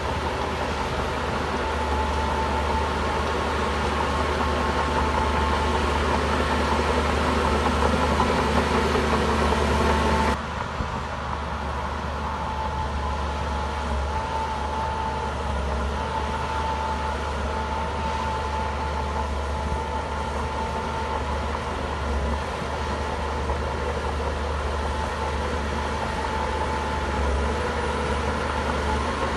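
Heavy diesel engine of earthmoving machinery running steadily, a deep rumble with a steady whine on top. The sound drops suddenly about ten seconds in and carries on a little quieter.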